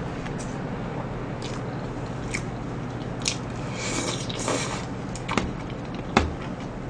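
Close-up chewing and biting of a mouthful of food, with a few short clicks and a brief crunchy patch partway through, over a steady low hum.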